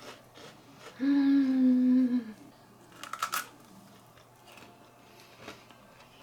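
A person hums a closed-mouth 'mmm' for about a second, the pitch dropping at the end. Then, about three seconds in, comes a short crunch of teeth biting through a crisp Nutella hazelnut wafer bar.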